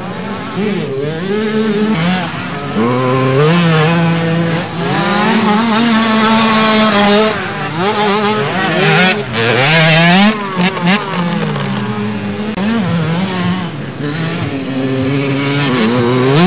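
Several motocross bikes' engines revving hard around the track, their pitch climbing and dropping again and again as riders shift gears and throttle on and off, with more than one bike heard at once.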